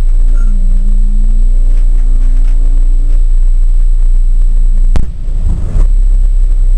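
The four-cylinder engine of a rally Ford Fiesta RS1800, heard from inside the cabin. Its revs dip at first, then are held steady and creep slowly upward before settling. About five seconds in, a sharp click cuts it off, and a lower, rougher engine rumble takes over.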